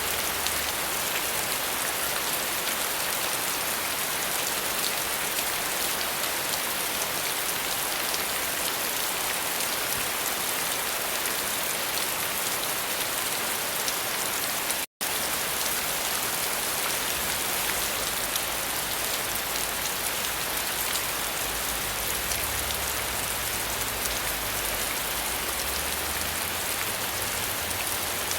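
Steady, dense rainfall, even in level throughout. It cuts out for an instant about halfway through.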